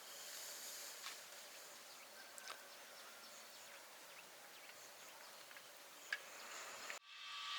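Faint outdoor rural ambience: a steady hiss of insects with a few soft chirps and light clicks. Near the end it cuts off abruptly to a louder steady hiss.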